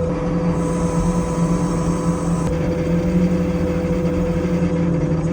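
Heavy equipment engine running steadily with a constant droning hum, from the machinery working the concrete pour.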